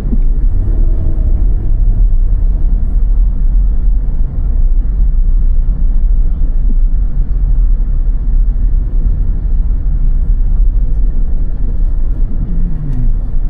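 Steady low rumble of a car driving on snow-covered roads, road and engine noise, with a tone falling in pitch near the end.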